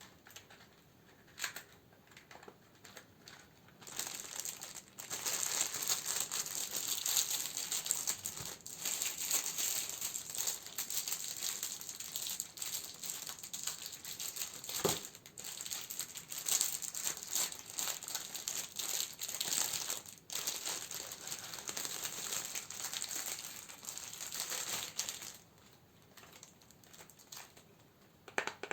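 Candle wrappings crinkling steadily as they are handled, for about twenty seconds, with a few light taps and clicks before and after.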